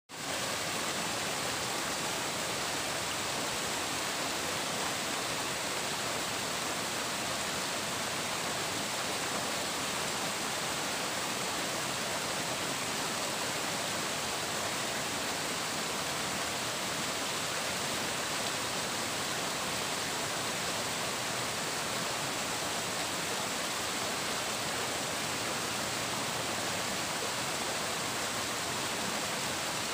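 Flowing water, a steady unbroken rush with no splashes or drips standing out.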